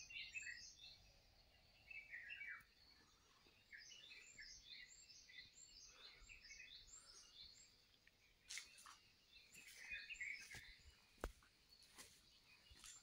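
Faint birdsong: several birds chirping, with a run of short, evenly repeated high notes in the middle, and a few soft clicks.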